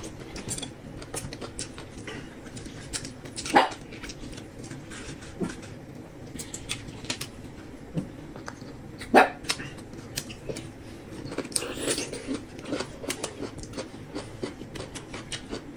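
Close-up eating sounds: chewing and mouth noises as steamed bread and rice are eaten, with many small scattered clicks and two louder short sounds about three and a half and nine seconds in.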